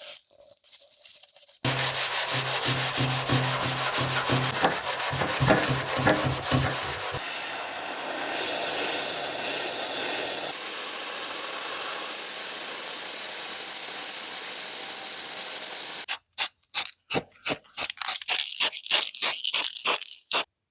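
Sanding on metal: first rhythmic strokes with a pulsing low hum, then a long steady hiss, then a quick run of short, sharp back-and-forth strokes near the end.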